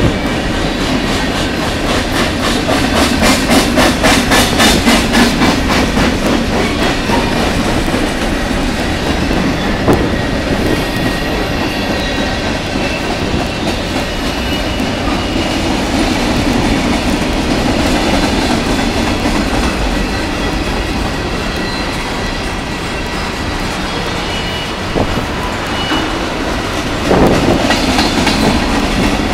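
Freight train of covered hopper cars rolling past, its wheels clicking rapidly over the rail joints over a steady rumble. The clicking is strongest a few seconds in, and the sound grows louder again near the end.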